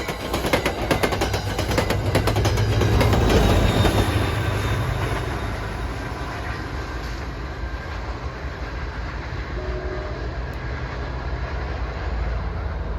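Diesel-hauled commuter train passing close by: rapid wheel clacks over the rail joints and the locomotive's low rumble, loudest around three to four seconds in, then fading to a steady rolling sound as it moves away.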